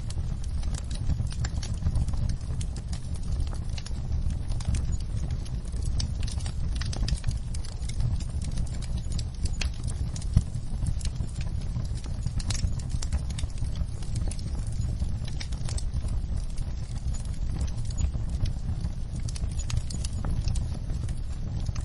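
Wood fire burning in a fireplace: irregular crackles and pops from the burning logs over a steady low rumble of the flames, with one sharper, louder pop about ten seconds in.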